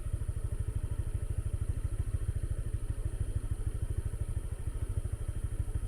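A motorbike engine idling with an even, rapid low pulse.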